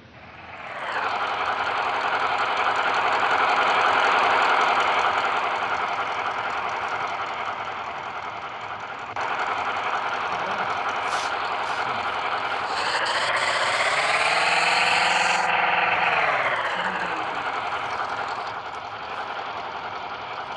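An engine running steadily, revved up and back down once about thirteen seconds in.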